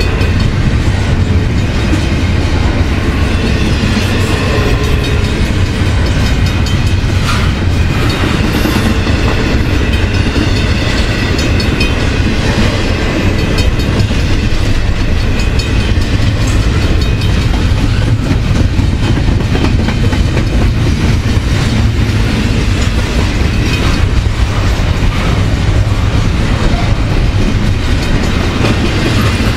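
Double-stack intermodal freight cars rolling past at close range: a loud, steady rumble of steel wheels on rail with clickety-clack from the wheels crossing rail joints.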